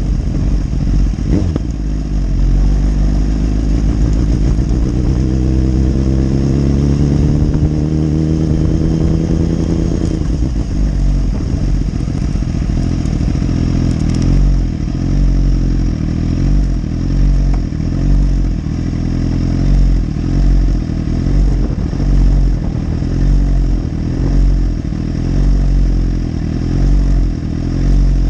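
2015 BMW S1000RR's inline-four engine pulling hard, its pitch climbing steadily for about eight seconds, then backing off. After that comes lower, uneven running with a deep rumble that swells and fades about once a second.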